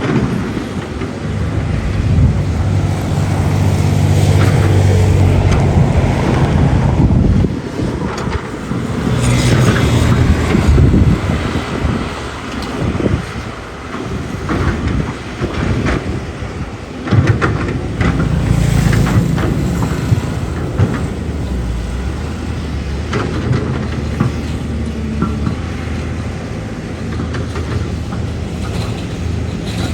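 Cat 320C excavator's diesel engine running under working load, swelling and easing as the hydraulics are worked, with scattered metallic clanks and a sharp knock about two-thirds of the way through.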